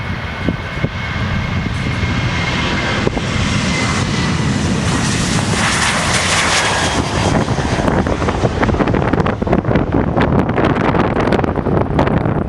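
Jet airliner passing close by: a high engine whine that drifts slightly down in pitch, with the rushing jet noise loudest about six seconds in and a low rumble under it. In the second half, wind buffets the microphone.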